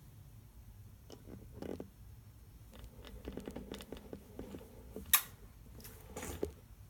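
Soft rustling and scattered light clicks of close handling, with one sharp click about five seconds in and a smaller one just over a second later.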